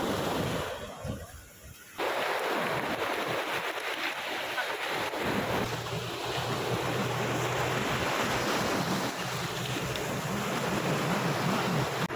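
Sea waves washing onto a beach, with wind buffeting the microphone. A steady low hum joins from about five seconds in.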